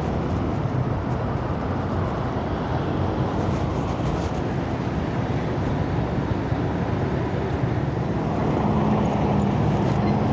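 Fuel tanker truck's diesel engine running with a steady low rumble, growing a little louder with a low hum near the end.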